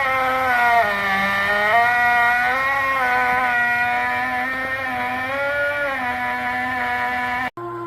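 GE Profile Opal nugget ice maker running loud, a steady motor whine whose pitch sags and recovers several times.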